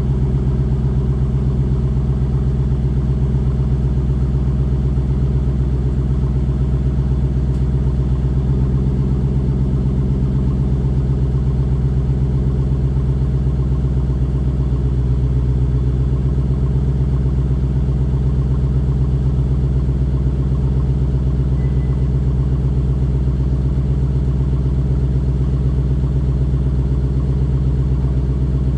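Lexus LS460's 4.6-litre V8 idling steadily through a modified exhaust after a cold start, with a deep, even exhaust note and no revving.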